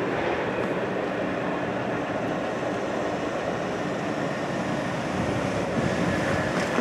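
Steady rumbling noise of the freight train moving off past the crossing, with a car driving over the crossing near the end.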